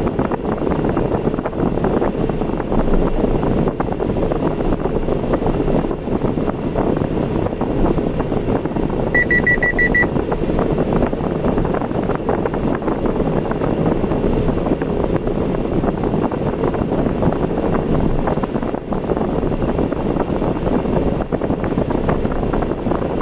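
Steady road and running noise of a car driving on ordinary roads. About nine seconds in comes a quick run of high electronic beeps, lasting under a second.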